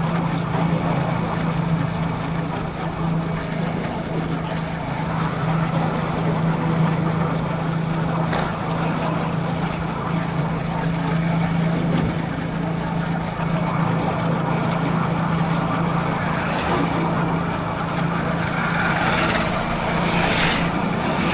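Motorcycle engine running at a steady cruising speed with a constant low hum, under rushing wind and road noise. Near the end come a couple of short rising sounds.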